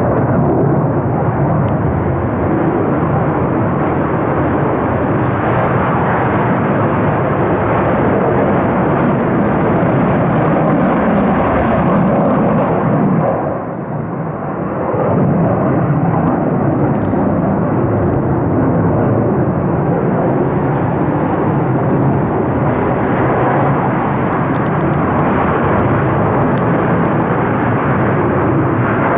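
US military fighter jets taking off, a loud, tremendous jet-engine roar. It dips briefly about halfway through, then swells again.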